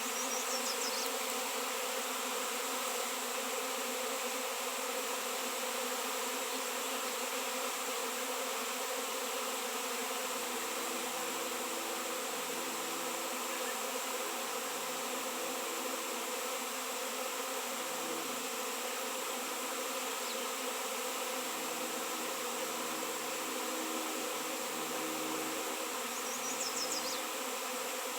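A swarm of honey bees buzzing: a dense, steady hum of many wingbeats that holds constant throughout.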